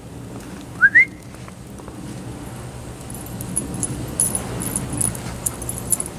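Two short rising whistles in quick succession from a person whistling to call a dog. From about three seconds in, light jingling from a dog's collar tags as it moves.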